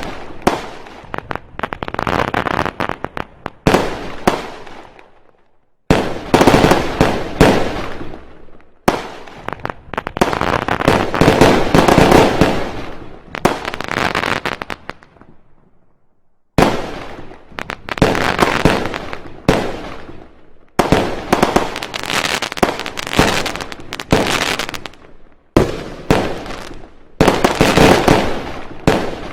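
Fireworks going off in dense, rapid volleys of bangs and crackles. The volleys come in stretches of a few seconds, each cutting off suddenly before the next begins.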